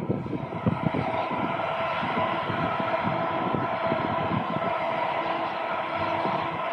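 Train passing close by: a steady rush of running noise with several steady whining tones held over it, which sets in suddenly at the start and stays loud.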